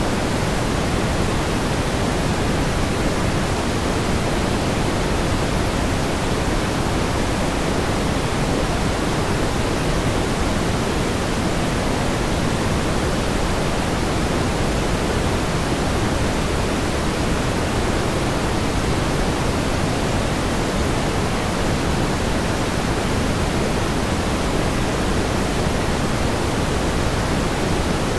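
Steady pink noise: an even, unchanging hiss, heavier in the lows than white noise.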